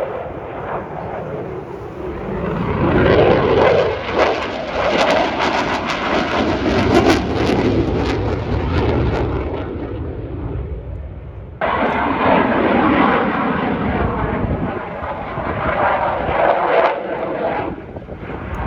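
Loud military aircraft engine noise from a low flypast, swelling to a peak with a crackling edge, then cutting abruptly to another loud aircraft pass about two-thirds of the way through.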